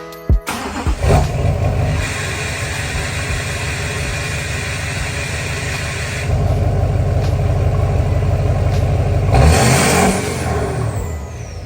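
Duramax LMM 6.6-litre V8 turbodiesel running through its new aftermarket exhaust, a deep steady rumble that gets louder about six seconds in, with a quick rev near the end.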